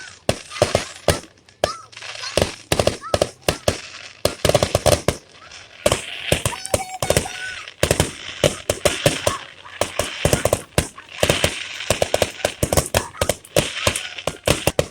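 Fireworks going off in a rapid, nearly continuous barrage of sharp bangs and crackles, several a second, with a few brief whistles among them.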